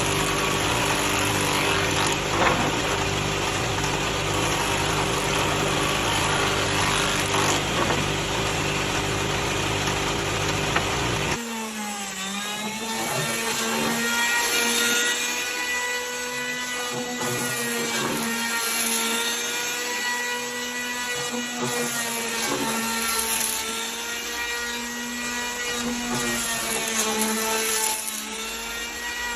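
Power tools running on wood: a steady low-pitched machine for about the first eleven seconds. After an abrupt cut comes a higher-pitched motor whine whose pitch sags and recovers again and again as the tool is loaded.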